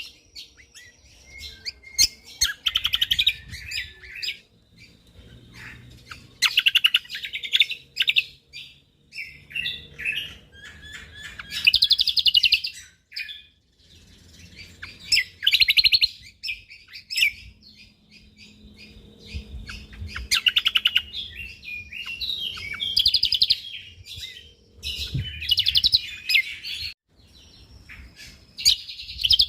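Cucak kombok (kecial kombok) songbird singing in repeated bursts of fast, dense chattering phrases, each about a second long with short pauses between them.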